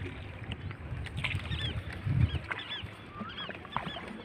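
Birds chirping repeatedly, many short, high, hooked notes, over a low rumble with a dull thump about two seconds in.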